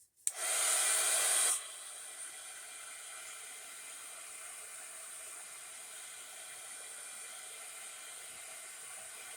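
Handheld craft dryer switched on about a third of a second in and blowing air steadily, loudest for the first second or so, then a steady lower hiss, drying wet ink on a paper piece.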